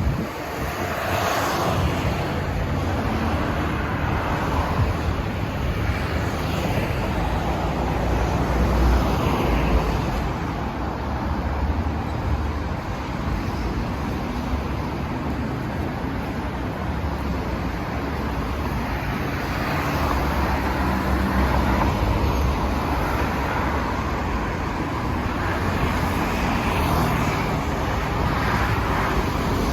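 City street traffic: a steady rumble of road noise, with cars passing that swell several times and fade.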